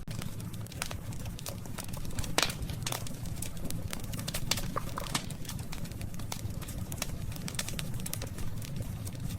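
Wood campfire crackling, with scattered sharp pops and snaps over a steady low rumble; the loudest snap comes a little over two seconds in.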